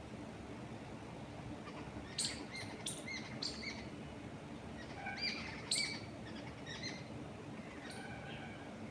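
Small songbirds chirping in short, high calls over a steady low rush of wind through trees. The chirps come in clusters, about two to three and a half seconds in and again around five to six seconds in.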